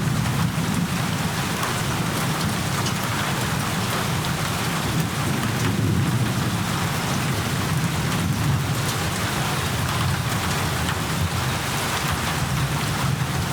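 Rain falling steadily and heavily, with a continuous low rumble underneath and faint scattered drop ticks.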